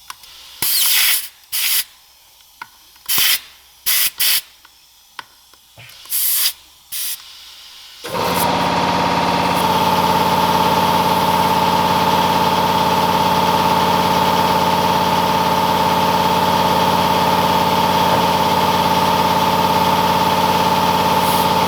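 Compressed air let out in about seven short, sharp hisses. About 8 seconds in, an air compressor starts and runs steadily with a high whine.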